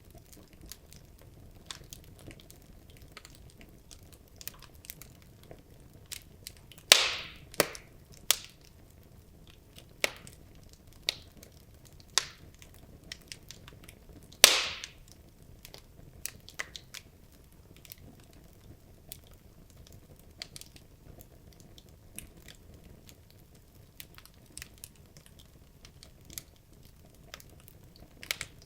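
Wood logs burning in a fireplace: scattered small crackles over a faint hiss, with two louder pops, the first about a quarter of the way in and the second about halfway.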